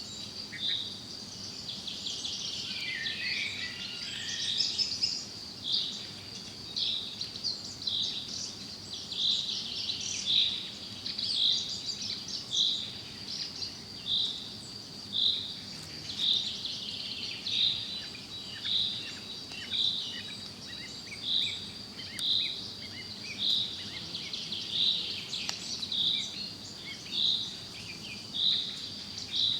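Forest birdsong over a steady high insect drone, with one short high note repeating very evenly about once a second and other birds' phrases scattered between.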